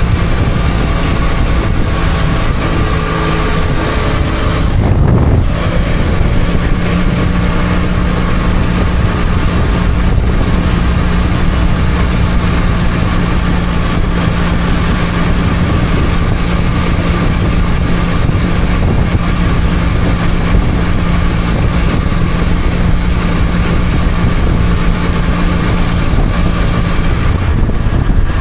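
BMW F800GS parallel-twin motorcycle engine running at a steady road speed, with wind noise over the microphone. The engine note breaks and changes about five seconds in, then holds steady.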